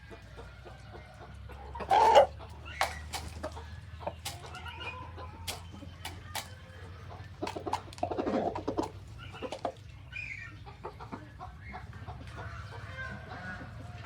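Chickens clucking and calling, with a louder call about two seconds in and another about eight seconds in, over a steady low hum.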